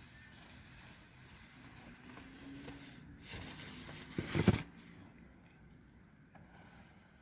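Snow shovel blade scraping and pushing snow along the ground, with one louder scrape about four seconds in.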